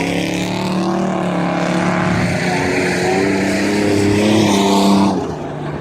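Dirt-track race trucks' engines running hard at speed, one engine note growing louder and climbing slightly in pitch as it comes close, then dropping off sharply about five seconds in.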